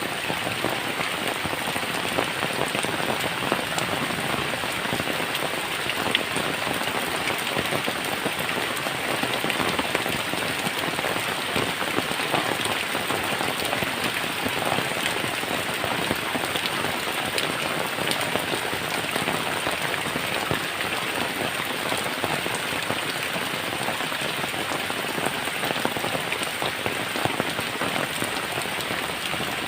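Heavy rain falling steadily on a tin roof, a dense unbroken patter of countless drops striking the metal.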